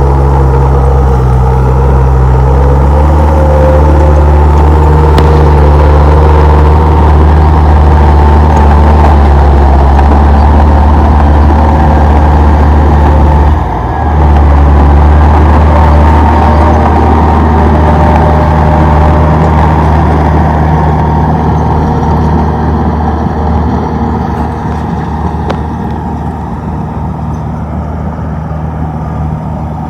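Komatsu D31P bulldozer's diesel engine running steadily at working revs. The engine briefly drops off about 14 seconds in, then comes back, and grows gradually quieter over the last ten seconds.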